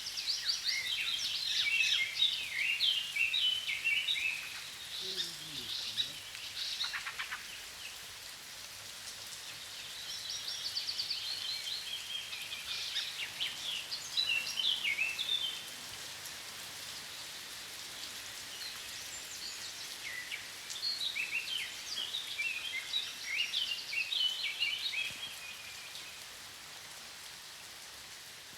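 A songbird singing three long phrases of quick chirps and trills, about ten seconds apart, over a steady background hiss.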